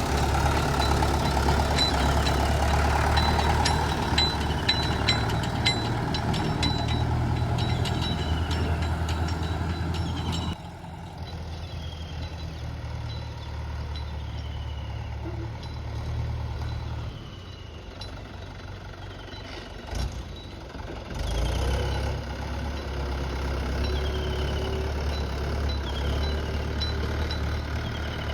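Heavy diesel machinery running steadily, from a backhoe loader and tractors. A short high falling chirp repeats about every second and a half. The engine sound drops abruptly about ten seconds in and comes back stronger a little after twenty seconds.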